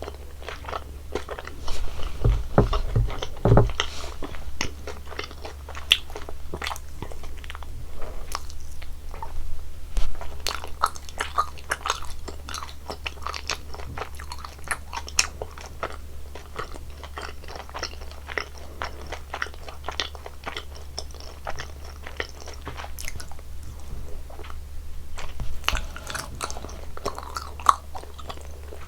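Close-miked eating sounds: a person biting, crunching and chewing sweets, with dense crackly mouth clicks and louder bursts of crunching about two to four seconds in and again around ten seconds in. A low steady hum runs underneath.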